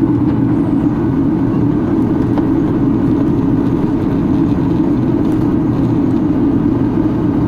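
Steady cabin noise inside a Boeing 737-800 on approach to land: a continuous drone from its CFM56 jet engines and the airflow over the fuselage, with an even low rumble underneath.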